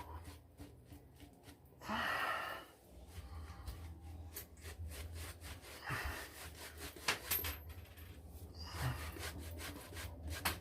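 Badger-hair shaving brush working shaving soap into a lather: a run of quick, soft scrubbing strokes, with a brief hiss about two seconds in.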